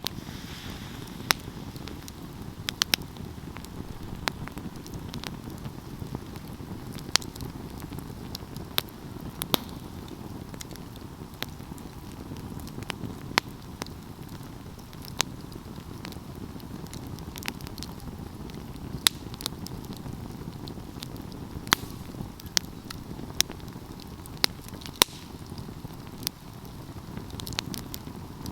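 Wood fire crackling: irregular sharp pops and snaps, a few much louder than the rest, over a steady low rush.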